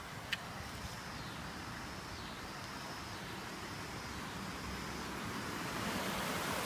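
Steady hiss of water during a flood, slowly growing louder toward the end, with one sharp click about a third of a second in.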